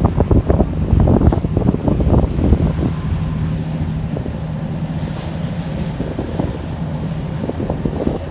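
Wind buffeting the microphone in gusts over a boat's engine, which settles into a steady low hum after about three seconds, with the wash of water around the hull.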